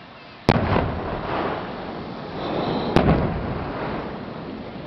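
Fireworks bursting on a rocky sea cliff: two loud booms, about half a second in and near three seconds, each followed by a long rumbling echo.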